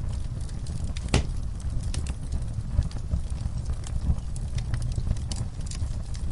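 Wood fire burning in a fireplace: a steady low rumble of flames with scattered crackles and pops, one sharp pop about a second in.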